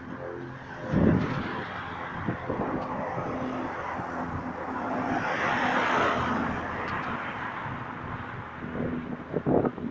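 A steady low hum made of several held tones, under a rushing noise that swells to a peak a little past the middle and fades, like a vehicle going by. A couple of dull thumps come about a second in and near the end.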